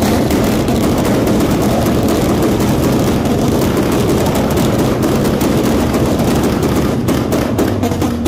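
Car engine, the silver Nissan 240SX's, held at high revs after a rev-up, loud and steady, with a rapid crackle from the exhaust near the end.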